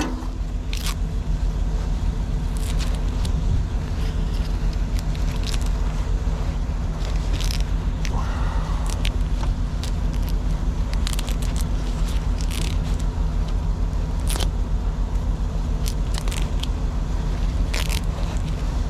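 Truck engine idling steadily, with scattered crackling and scraping as tape is peeled and cut off a truck's red air hose.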